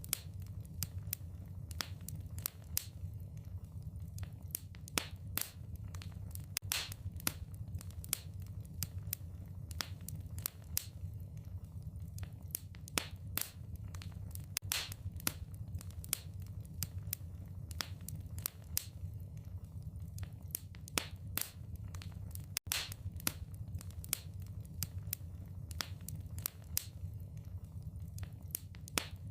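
Wood fire crackling in a fireplace: irregular sharp pops and snaps over a steady low rumble of the flames, with a momentary break in the sound about two-thirds through.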